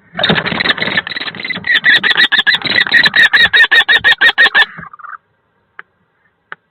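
Common kestrel giving loud, rapid, repeated shrill alarm calls, about six a second: harsh and ragged at first, then clearer, evenly spaced notes. It is the kestrel defending the nest box against a barn owl. The calling stops after nearly five seconds, and two faint clicks follow.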